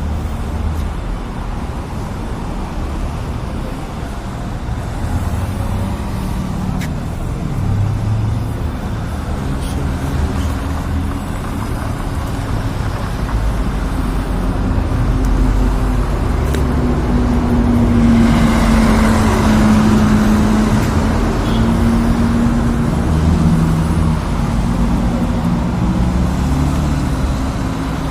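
Street traffic: cars passing on the road, with one vehicle's engine hum growing louder for a few seconds about two-thirds of the way through. Wind is buffeting the microphone.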